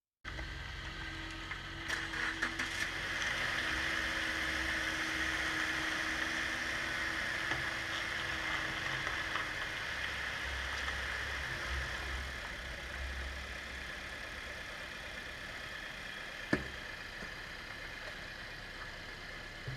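2014 Subaru Forester XT's turbocharged 2.0-litre flat-four engine idling steadily, with a single sharp click about three quarters of the way through.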